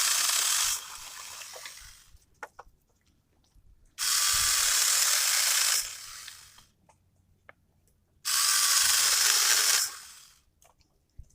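Cordless 20V mini chainsaw running in three short bursts, each under two seconds, each winding down for about a second as the trigger is let go. The bursts come at the start, about four seconds in and about eight seconds in.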